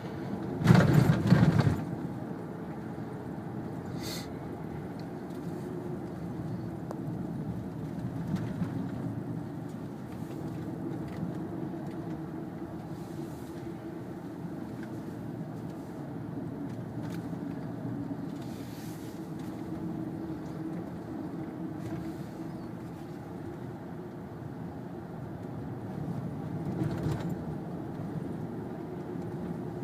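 Steady engine and road noise heard from inside a moving Kia Sedona minivan's cabin, with a brief loud burst of noise about a second in.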